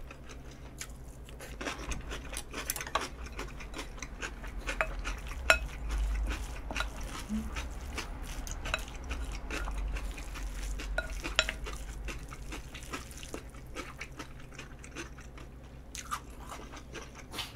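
Close-miked eating: chewing and munching on nakgopsae (octopus, beef intestine and shrimp with rice), with many small clicks of utensils against the dish.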